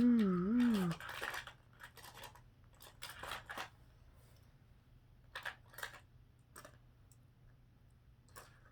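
A brief wavering, siren-like sound in the first second, then scattered clicks, taps and scrapes of plastic toy cars and track pieces being handled.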